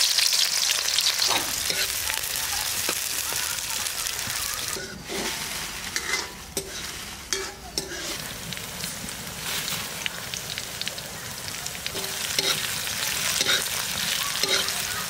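Sliced red onions sizzling in hot oil in a metal kadai. The hiss is loudest at the start and settles into a steady sizzle, with a spatula scraping and clinking against the pan now and then as the onions are stirred.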